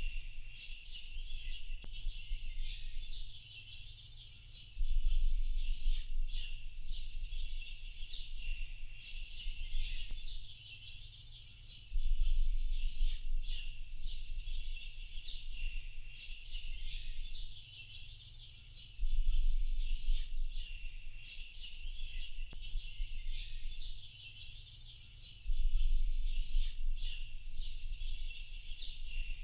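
A dense chorus of many small birds chirping and twittering without a break. Under it a low rumble swells for a second or two about every seven seconds, four times in all.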